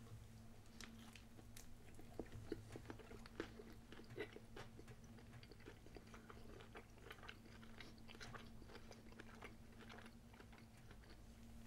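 Faint chewing of a soft crepe filled with fruit, with small irregular mouth clicks, over a low steady hum.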